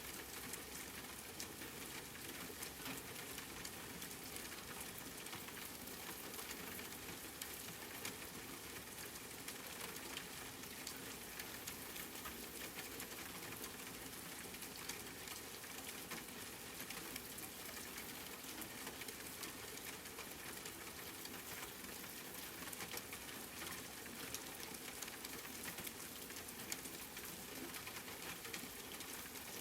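Steady rain falling, an even hiss dotted with many sharp drop ticks.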